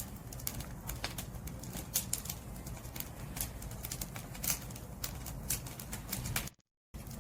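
Wood fire crackling: irregular sharp pops and snaps over a low rumble of burning flame. The sound cuts out completely for about half a second near the end.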